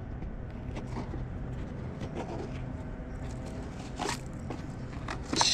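A few short scrapes and clicks over a low steady hum.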